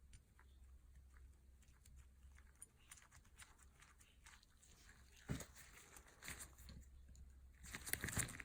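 Faint handling noises of restoration work on small parts: scattered light clicks, a sharper knock about five seconds in, and a burst of scraping and rustling near the end.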